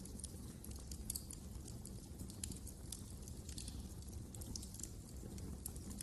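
Wood fire in a fireplace crackling, with frequent small irregular pops over a low steady rumble.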